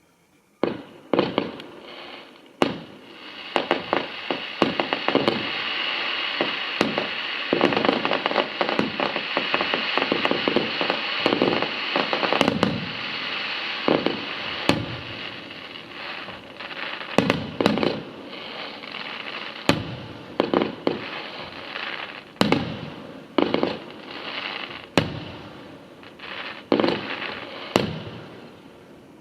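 Fireworks display: a rapid run of sharp bangs from bursting shells over a dense, continuous crackling hiss, which is thickest in the first half and thins to scattered bangs later.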